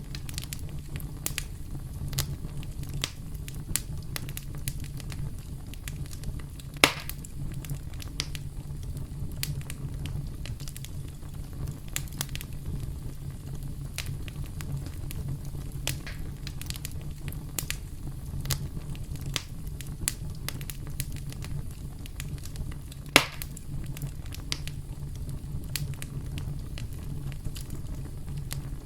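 Campfire burning: a steady low rumble of flames with irregular crackles and snaps of burning wood, and two louder pops, one about seven seconds in and one about twenty-three seconds in.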